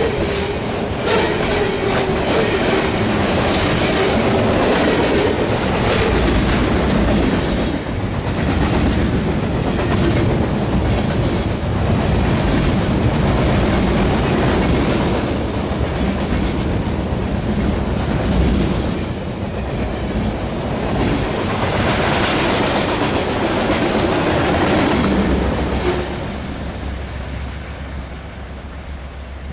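Freight train cars rolling past, wheels clacking over rail joints in a steady run of knocks. The sound drops off sharply near the end as the train passes.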